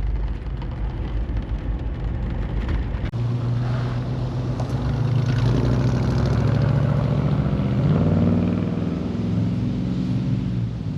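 Ford 460 cubic-inch V8 of a car under way. The engine note shifts suddenly about three seconds in, then climbs as the car accelerates and settles to a steady run.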